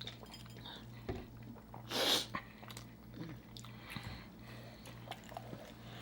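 Close-miked eating: soft chewing and mouth clicks as tender oxtail meat is bitten and chewed, with one short, louder breathy noise about two seconds in. A faint steady electrical hum sits underneath.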